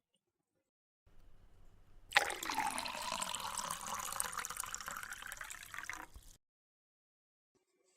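Running water that starts suddenly about two seconds in, runs steadily for about four seconds, and stops abruptly.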